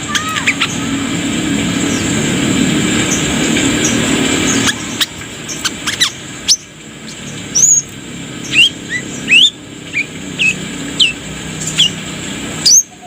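Brown-throated sunbird (kolibri kelapa) calling in a run of short, sharp, rising chirps, denser in the second half, over a low background rumble that fades about five seconds in.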